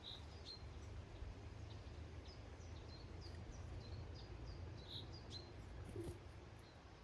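Small garden songbirds giving many short, high chirps, scattered throughout and faint, over a steady low background rumble.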